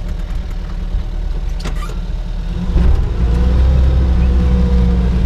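Vehicle engine running, heard from inside the cab, that picks up and gets clearly louder about three seconds in as the vehicle pulls away and crawls through deep snow.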